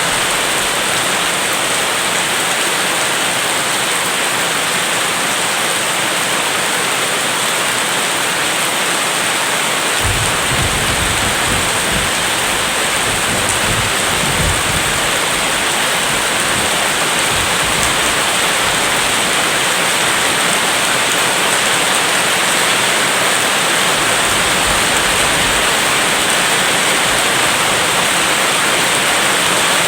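Steady, heavy rain hissing evenly. Low thunder rumbles roll in about a third of the way through and again briefly near the end.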